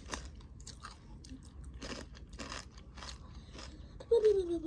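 Crunching and chewing of Takis rolled tortilla chips: irregular, crisp crunches bitten one after another. About four seconds in, a voice gives a short sound that slides down in pitch, the loudest moment.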